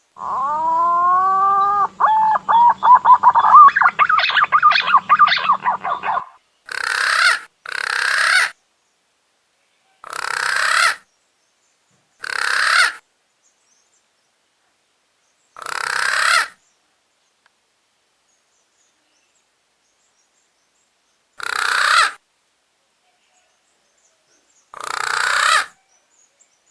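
Punai daun (green pigeon) calling. A whistled song of rising glides breaks into rapid trilled notes for about six seconds, with a low hum underneath. Then come seven short, rasping calls, each about a second long, at uneven intervals.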